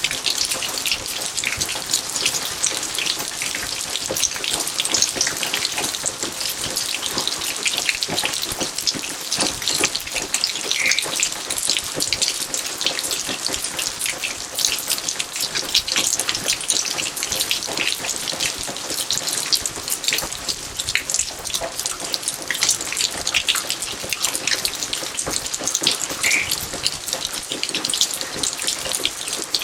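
Steady rain falling on garden surfaces: an even hiss with many close, sharp drop hits throughout.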